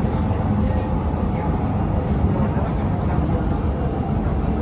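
Cabin noise of a Singapore MRT train running between stations: a steady rumble of wheels on the rails and running gear, with a few faint steady tones above it.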